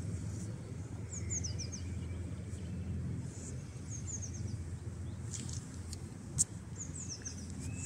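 Small birds chirping in three short runs of quick, high, falling notes over a steady low outdoor rumble, with one sharp click about six seconds in.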